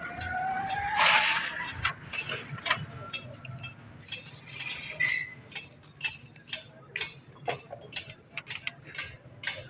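Small metal parts and tools clinking and tapping in irregular light knocks, with a short burst of hissing noise about a second in.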